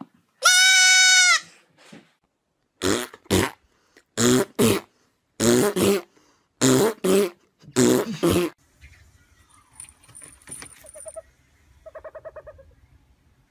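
Animal calls: one long, loud, high-pitched call near the start, then five pairs of short, harsh calls, and a quieter quavering call near the end.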